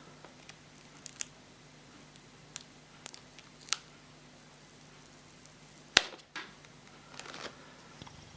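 Scattered small clicks and taps of plastic parts and tools while a laptop screen panel is worked on, with one sharp, much louder click about six seconds in.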